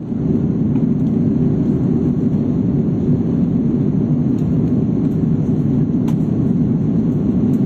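Steady aircraft cabin noise: an even, low rumble of engines and rushing air heard from inside a plane in flight.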